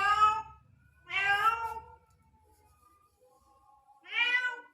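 Male cat meowing three times in long, drawn-out calls: one at the start, one about a second in and one near the end. These are the calls of a tom wanting to mate with no female available.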